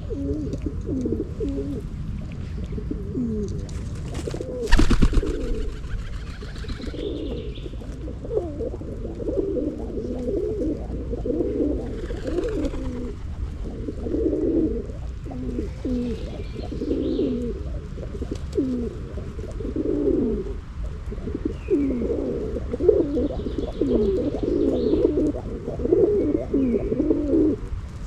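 Several pigeons cooing, their low calls overlapping almost continuously over a steady low rumble. A single sharp knock comes about five seconds in.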